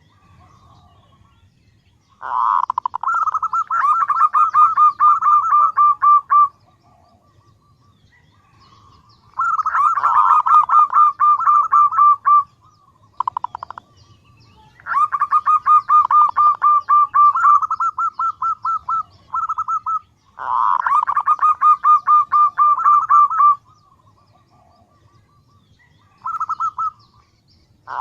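Female zebra dove (perkutut) calling to draw males: four long bouts of rapid, staccato cooing notes, each lasting a few seconds, separated by short pauses, with a brief burst near the end.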